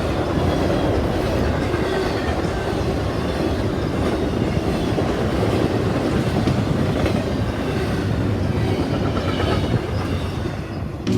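A train rolling past: a steady rumble of wheels on rail with a faint clickety-clack of wheels over rail joints, easing a little near the end.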